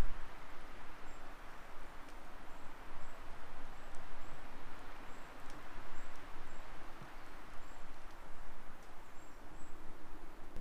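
Footsteps of a hiker walking downhill over rough ground, about one step a second, over a steady rushing hiss.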